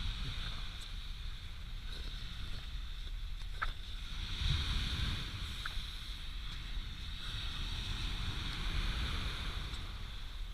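Light wind blowing on the microphone over the steady wash of sea waves on the shore.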